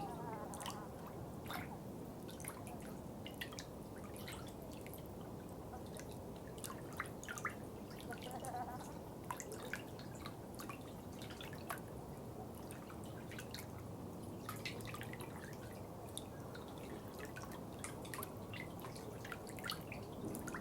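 Water dripping: small drops landing at an irregular pace, several a second, over a steady low background noise.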